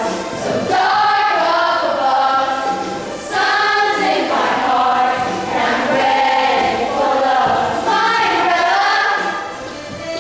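A choir of voices singing a song together in several long sung phrases, with short breaks between them.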